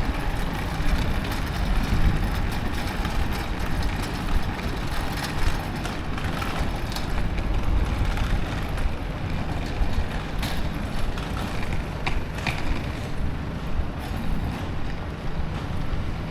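Rainy city street ambience: a steady wash of rain and traffic noise with an uneven low rumble, and a few faint short ticks now and then.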